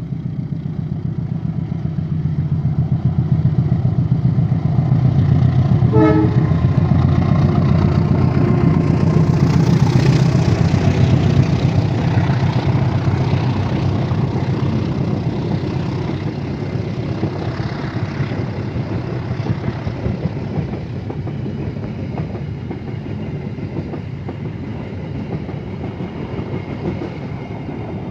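Diesel locomotive-hauled passenger train passing: a heavy engine rumble swells to a peak about ten seconds in, then fades slowly as the coaches roll by. A short horn toot sounds about six seconds in.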